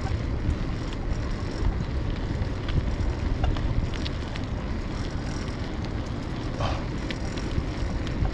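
Wind rushing over the microphone on a moving bicycle, a steady low rumble, with a few faint ticks and rattles from the bike.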